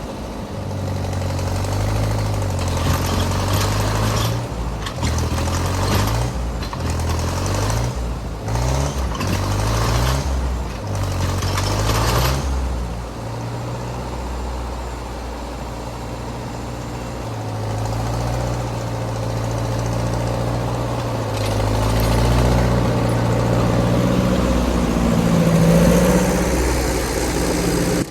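Ford half-track tractor's engine working under load while plowing snow, its revs rising and falling repeatedly, with a series of noisy bursts in the first half. It steadies and then revs up again near the end.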